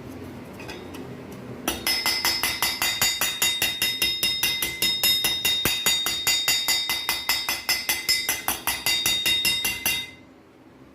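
Rapid, even metallic tapping, about seven strikes a second, each ringing with the same high tones, for about eight seconds before it stops abruptly.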